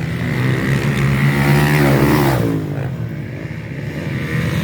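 Motocross bike engines running, with one bike passing close about two seconds in, its pitch falling steeply as it goes by.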